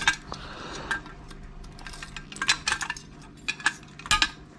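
Metal computer parts and tools clinking and clattering as they are handled, in several short bunches of sharp clicks spread through the moment.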